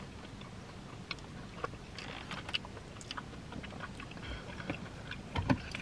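Close-miked chewing of chili cheese fries: scattered soft, wet mouth clicks and smacks, with a slightly louder knock a little before the end.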